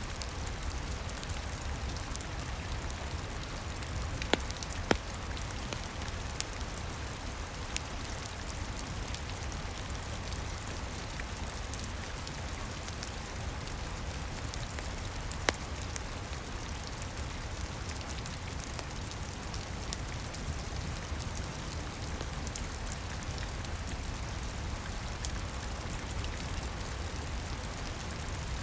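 Steady rain with a low rumble underneath, and a few sharp pops from a crackling wood fire: two close together about four seconds in, and one about halfway through.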